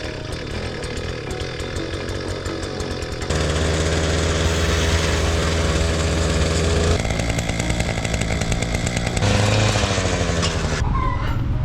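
Small gas engine of a post-hole auger running. It revs up sharply about three seconds in, and its pitch shifts a few times after that.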